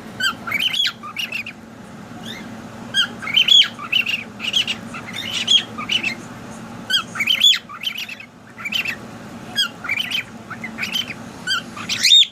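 Pet cockatiels calling: a run of short, rising-and-falling chirps and squawks repeated over and over, with a steady low hum underneath.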